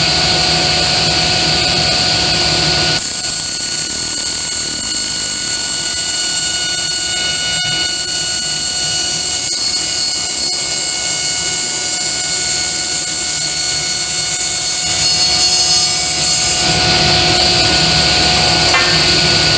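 Table saw running and ripping plexiglass sheet into window panes, a steady high motor whine whose low rumble drops away about 3 seconds in and comes back near the end.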